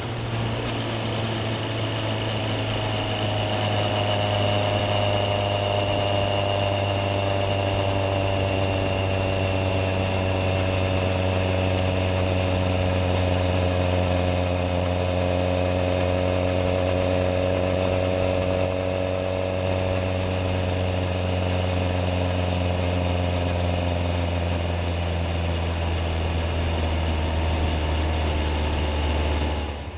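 Yamaha XJR1300 motorcycle's inline-four engine idling steadily for a long stretch, its sound changing only at the very end.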